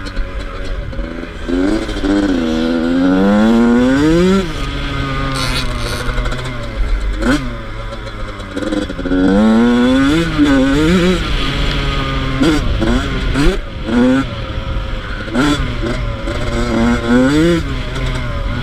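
A Yamaha YZ85's two-stroke engine revving hard as the bike is ridden. Its pitch climbs and falls again and again through the gears, with sharp knocks now and then.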